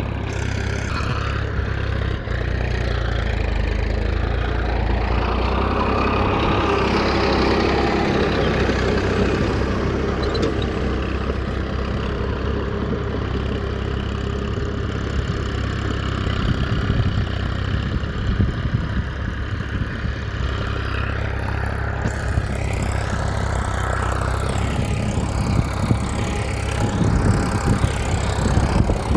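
A small engine running steadily at a low, even pitch, with louder rattling near the end.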